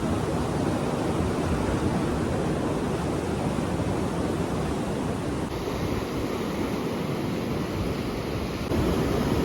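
Sea waves washing onto a beach, with wind rushing across the microphone; a little louder near the end.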